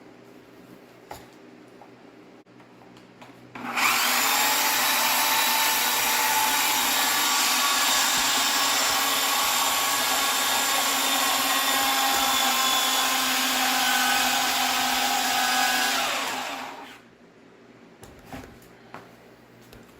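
A high-speed electric motor starts about four seconds in and runs steadily with a whine for about twelve seconds, then winds down.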